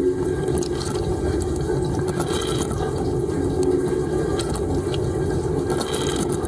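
Dishwasher running, heard from inside the tub: water spraying and splashing against the dishes and walls over the steady hum of the wash pump, with scattered sharp ticks of spray hitting nearby.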